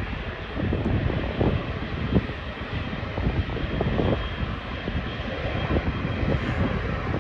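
Airbus A380's four jet engines running at takeoff power as it rolls down the runway, a steady roar. Gusts of wind buffet the microphone.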